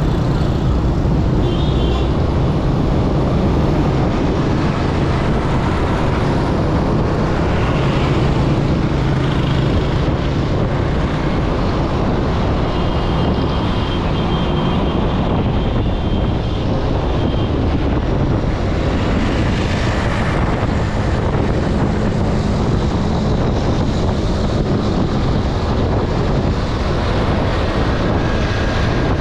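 Steady rumble of road traffic with wind buffeting the microphone. A high horn-like tone sounds for a few seconds in the middle.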